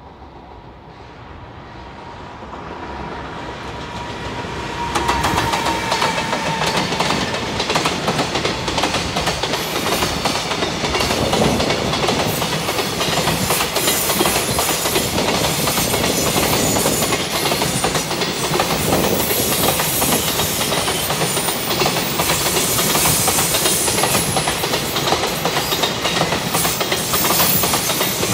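Freight train approaching, growing louder over the first few seconds, then a long string of container wagons rolling past close by with steady wheel clatter on the rails.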